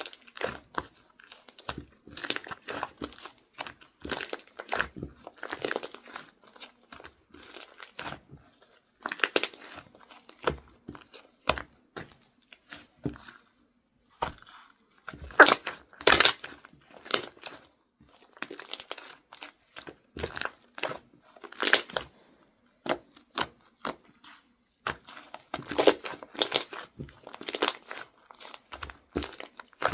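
Slime being squeezed, poked and stretched by hand, giving irregular crackling and crunching clicks in short clusters, with the loudest snaps about halfway through.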